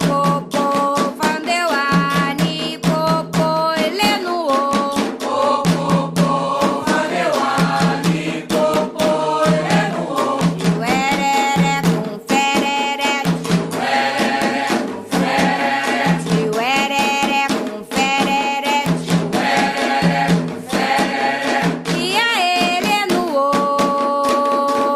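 Voices singing a Candomblé song for Xangô over a fast, steady pattern of drum and percussion strokes.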